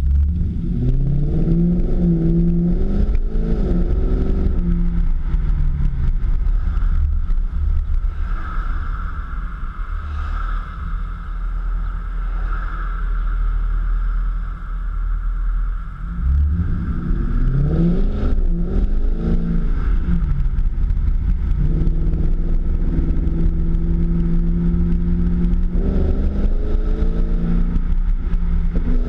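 Infiniti FX50S's V8 engine through an ARK custom exhaust, accelerating: the exhaust note rises in pitch near the start, again about two-thirds of the way in and once more near the end, holding steadier in between.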